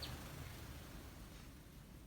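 A wild sparrow chirping faintly: one short high note right at the start, over a low steady hiss.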